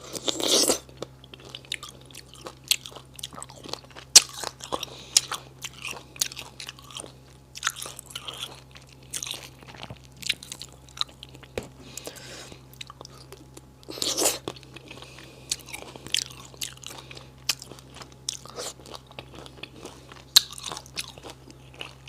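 Close-up chewing and biting of spicy silkworm pupae: a run of crisp crunches and small clicks, with louder bites about half a second in and again around fourteen seconds.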